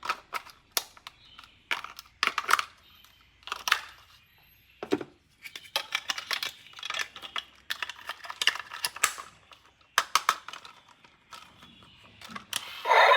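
Plastic toys and their packaging being handled: an irregular run of sharp clicks and clacks with short rustles. Music with a sung voice comes in near the end.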